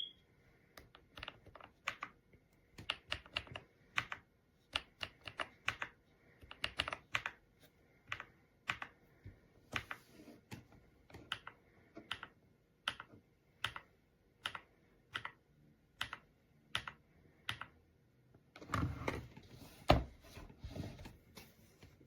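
Typing on a gasket-mounted Kisnt wireless mechanical keyboard: irregular keystroke clicks, some single and some in quick runs. Near the end, a short stretch of rustling noise with one thump.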